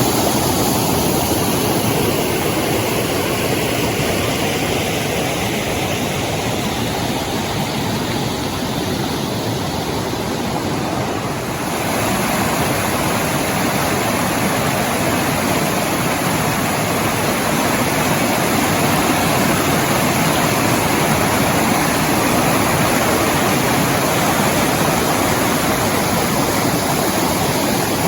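Rushing water of a waterfall, a steady, dense roar of falling water, its tone shifting slightly about twelve seconds in.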